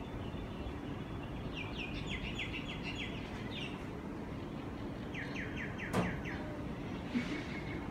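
A bird calling in two runs of quick, repeated chirps, several a second, over a steady low background rumble. A sharp click comes about six seconds in.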